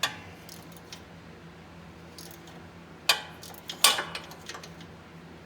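Metal hand tools (socket, ratchet and wrench) clinking and clanking against each other and against metal as they are handled: a few separate sharp clinks, the loudest about three and four seconds in.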